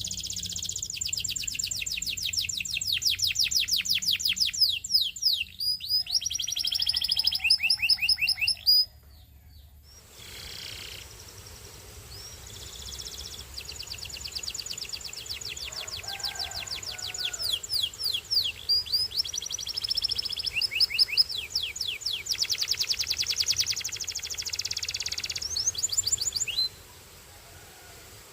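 A Belgian singing canary singing long, rapid trills of evenly repeated sweeping notes, switching between several trill types. The song breaks off about nine seconds in, resumes a second or so later, and stops again near the end.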